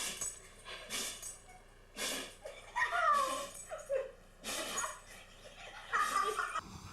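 A dog sneezing over and over, a short sharp burst about once a second, six times in all.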